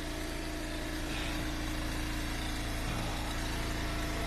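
Gas engine of a log splitter idling steadily while it warms up in the cold.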